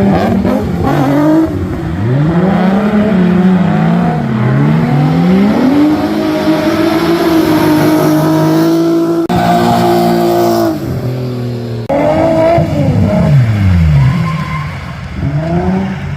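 Drift cars' engines revving up and down over and over as they slide through the course, with tyre squeal. The engine note changes abruptly about nine seconds in and again about twelve seconds in.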